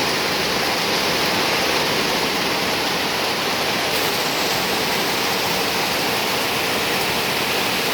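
Heavy rain falling steadily on an aluminium roof, a dense, even hiss.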